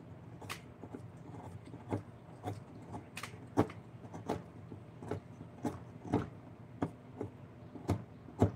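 Sharp, irregular knocks and taps of carving tools working wood, about one or two a second, some louder than others.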